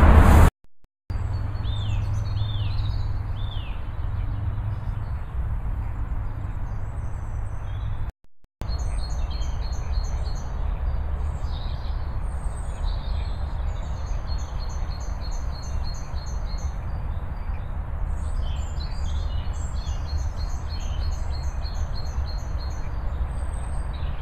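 Small songbirds chirping and trilling, with quick runs of repeated high notes, over a steady low rumble. The sound drops out briefly about eight seconds in.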